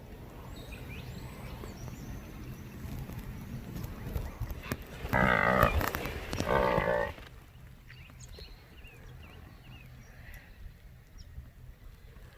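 A cow mooing twice, a long call and then a shorter one, about five seconds in, with faint birdsong around it.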